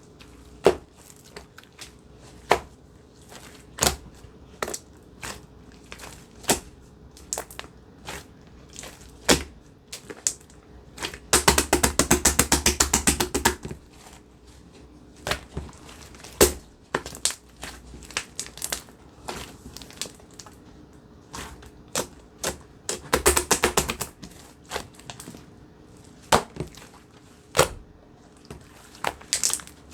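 Slime being squished and poked by hand, giving scattered sharp pops and clicks, with two runs of rapid crackling clicks: one of about two seconds near the middle and a shorter one a few seconds before the end.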